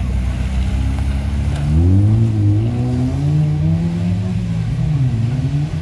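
Old car's engine pulling away. It runs low and steady, then about two seconds in its pitch climbs as it accelerates, eases off, dips briefly near the end and rises again.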